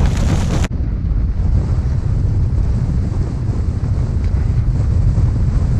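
Strong storm wind buffeting the microphone: a loud, steady low rumble that gusts without letting up.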